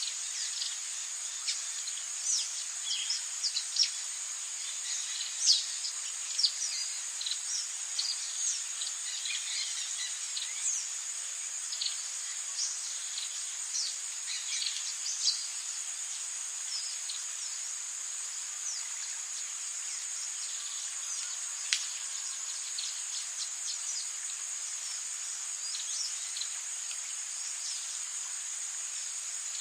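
Rainforest ambience: a steady high-pitched insect drone with many short, quick bird chirps over it. The chirps are frequent through the first half and thin out later, with a single sharp note a little after the middle.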